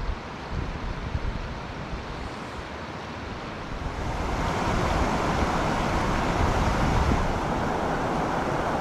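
Mountain stream water rushing, with wind buffeting the microphone; the water noise grows louder about four seconds in.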